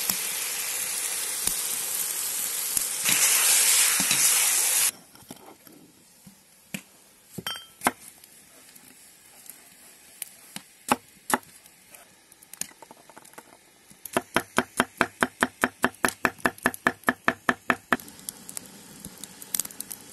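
Pork and onions sizzling loudly in a kazan over a fire on high heat, cut off suddenly about five seconds in. Then a few knocks of a knife on a wooden cutting board, and a quick, steady run of knife chops on the board, about six a second, lasting some four seconds.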